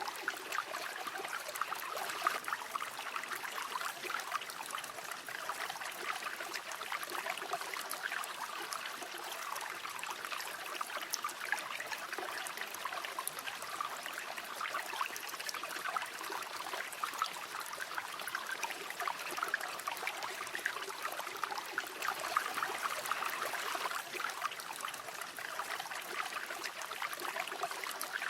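River water flowing steadily over stones, a continuous babbling and trickling rush with most of its sound in the middle and upper pitches.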